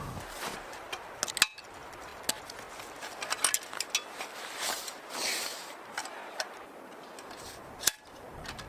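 Scattered small clicks, ticks and brief rustles, as of objects being handled, with two sharper clicks, one about a second and a half in and one near the end.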